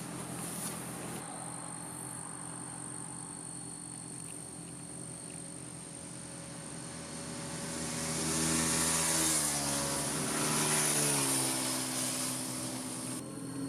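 A motorcycle approaches and passes by at speed, its engine note swelling to a peak and dropping in pitch as it goes past, then fading.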